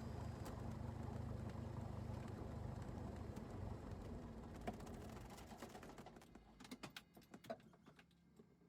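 Cessna 172's engine running with a low, steady drone that dies away over the second half, with a few sharp clicks as it fades.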